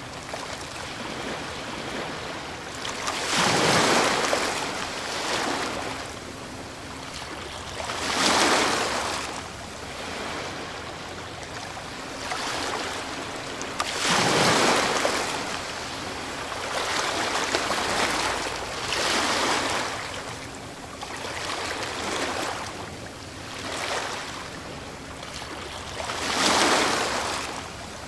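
Ocean waves breaking on a shore, the surf swelling and falling away again and again, with a big breaker every four to six seconds.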